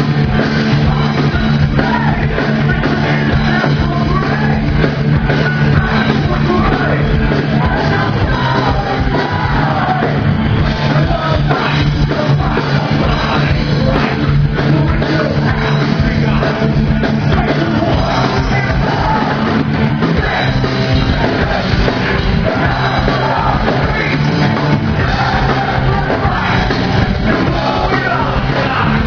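Heavy rock song with a singer over electric guitars, bass and drums, loud and continuous with a steady beat.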